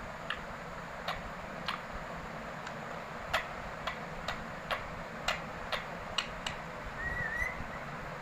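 Indian ringneck parrot making a series of short sharp clicks at irregular intervals, then a brief rising whistle about seven seconds in.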